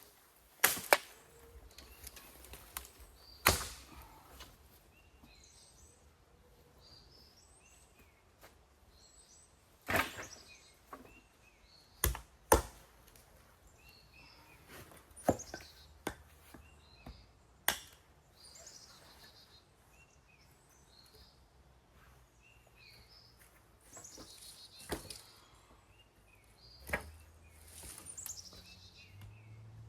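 Wood being chopped by hand: about ten sharp, irregular strikes, a few seconds apart, with small birds chirping between them.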